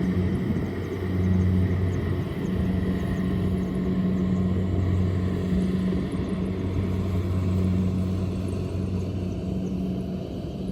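Kubota DC-70 Plus rice combine harvester running steadily in the field, its diesel engine giving a constant, even drone.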